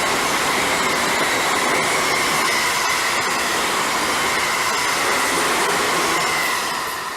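A train passing close by on the JR Kyoto Line: steady, loud wheel-on-rail running noise with a held tone in it, beginning to fade about six and a half seconds in as it moves away.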